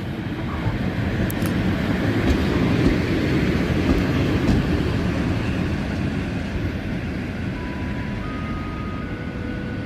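Electric locomotive (PKP EP07) moving slowly on a shunting move, a broad rail rumble that swells to its loudest in the middle and then eases off. Near the end a station chime plays three notes stepping upward in pitch.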